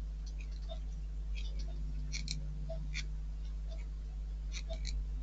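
Light, irregular clicks of small metal model parts and screws being handled during kit assembly, over a steady low hum, with a soft tick repeating about once a second.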